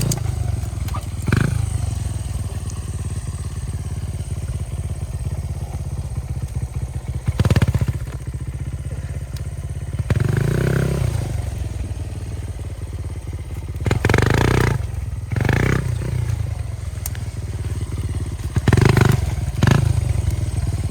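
Small single-cylinder trail motorcycle riding along a rough forest track, its engine a steady low rumble muffled by a tissue-covered camera microphone, with about six brief louder bursts.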